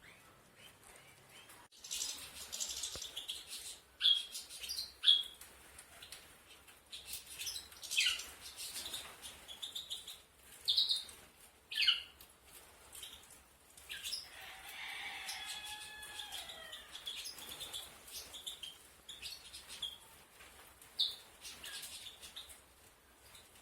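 European goldfinches calling: many short, sharp high chirps scattered irregularly, with a longer, lower gliding call about two-thirds of the way through.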